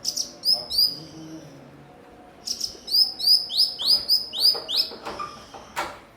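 Cucak cungkok singing a rapid series of sharp, repeated chirps, about four a second, in two runs with a pause of over a second between them. A short click comes near the end.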